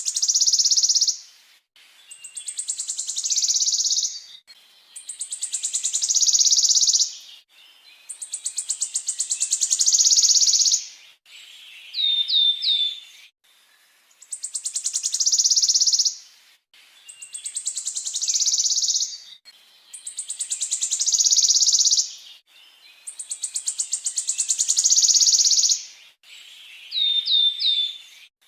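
A songbird's rapid rolling trill, sung in repeated phrases of about two seconds that swell in loudness, with a short three-note chirp twice. This is a looped master recording used to teach caged songbirds the rolling song.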